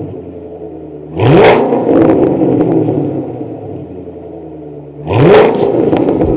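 Car engine revved through a MACH Force-Xp axle-back exhaust: idling, then blipped twice, rising sharply about a second in and again about five seconds in, falling back to idle after each.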